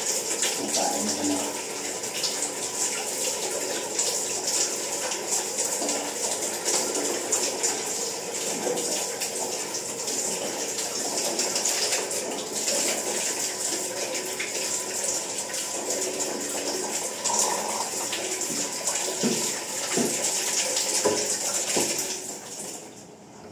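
Water running steadily, as a continuous pouring rush, that stops shortly before the end.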